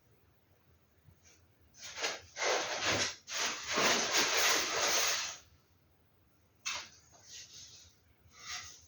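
Rustling as a poster is handled: a dense rustle lasting about three seconds, then a few shorter rustles near the end.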